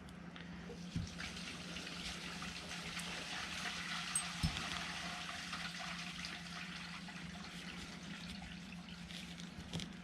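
Faint continuous scratching and rustling with a few light clicks: a bent paper-clip hook being worked through an airsoft gas-blowback bolt to catch the spring and pull it out the rear hole. A low steady hum runs underneath.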